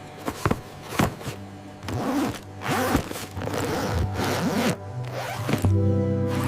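Cartoon sound effects: several sharp clicks and a zipper-like rasping, with background music with held notes coming in near the end.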